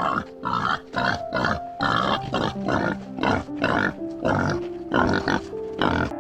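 An animal giving a rapid series of short, rough calls, about two a second, over background music.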